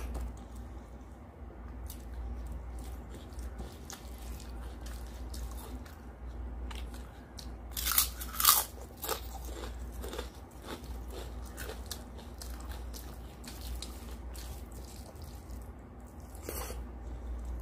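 Close-up eating sounds of rice and mutton curry eaten by hand: chewing and biting with many small clicks, and a louder cluster about halfway through as a handful goes into the mouth.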